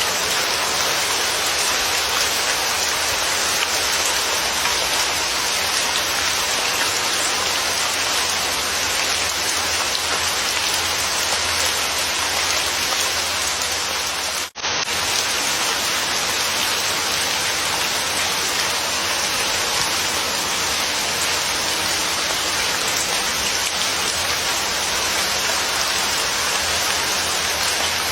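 Steady, dense rain falling. It cuts out for a split second about halfway through, then resumes unchanged.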